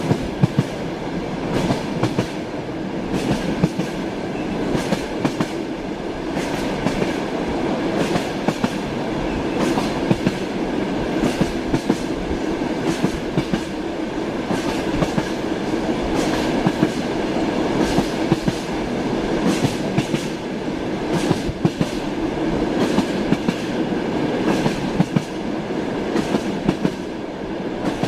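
Passenger train running, with the clickety-clack of wheels over rail joints and many sharp clicks over a steady rumble, heard from inside a compartment car.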